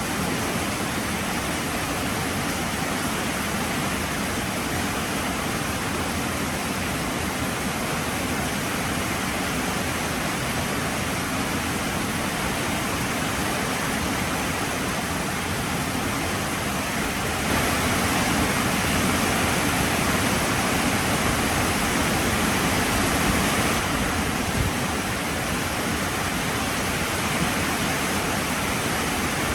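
Heavy rain falling, a steady dense hiss that swells louder for about six seconds past the middle before settling back.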